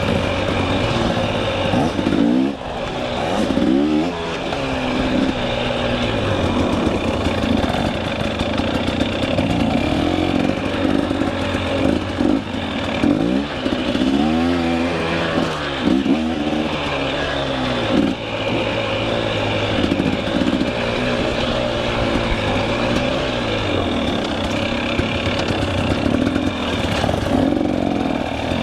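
Two-stroke KTM 300 EXC enduro dirt bike engine being worked on and off the throttle, its pitch rising and falling over and over every second or two, with a few sharper blips and drops.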